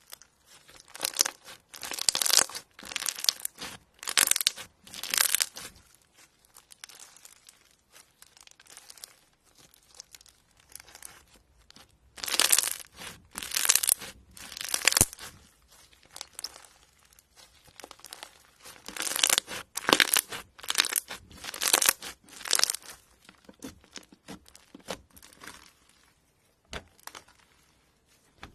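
Hands pressing and stretching slime, giving bursts of crackling, crinkly pops in clusters with quieter stretches between.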